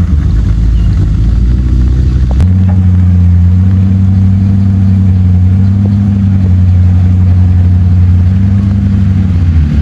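Motor vehicle engine running at low revs, a steady low drone whose tone shifts abruptly about two and a half seconds in.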